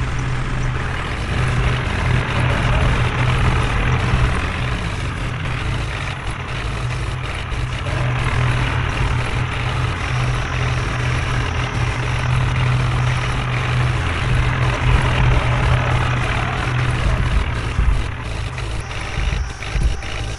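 Heavy diesel engine running steadily and loudly with a constant low drone. A few irregular knocks come near the end.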